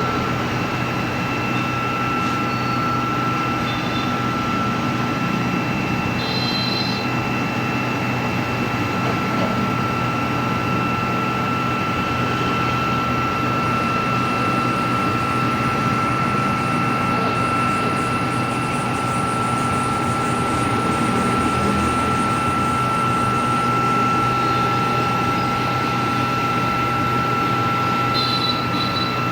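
Stick (arc) welding on steel pipe: the arc gives a steady hissing noise over a constant high whine and hum from the welding machine.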